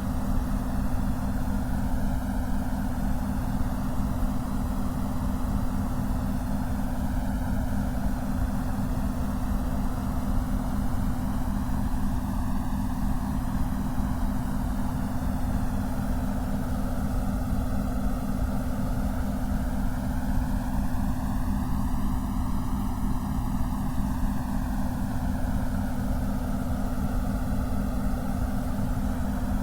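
Steady synthetic white noise with heavy low-end rumble and a rapidly flickering low hum. Slow swishing sweeps move through its upper range, one rising and falling broadly about two-thirds of the way in.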